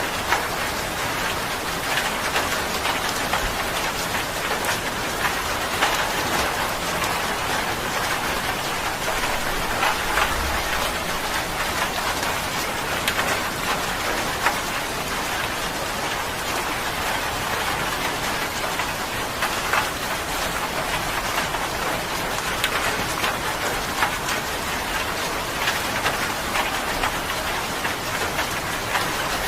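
Steady rain falling on a surface, with a constant hiss and many sharp individual drop ticks, and a brief low rumble about ten seconds in.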